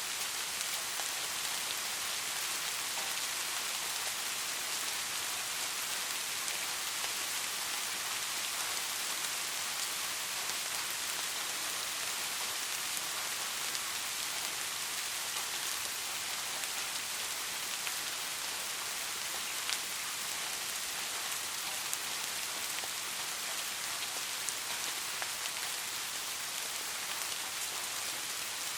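Light rain falling steadily: an even hiss with scattered fine drop ticks.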